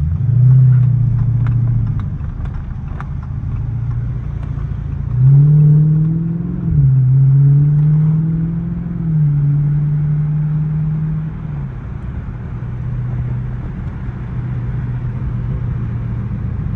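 Dodge SRT 392's 6.4-litre HEMI V8 running as the car turns in at low speed: the engine note swells right at the start, rises and falls twice about five seconds in, then settles into a steady low drone.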